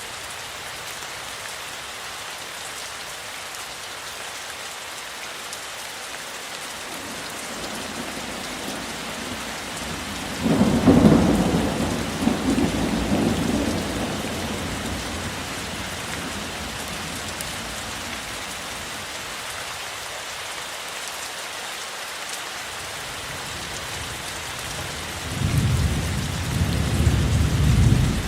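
Steady rainfall with thunder: a loud rumble breaks out suddenly about ten seconds in and fades away over several seconds, and another rumble starts near the end.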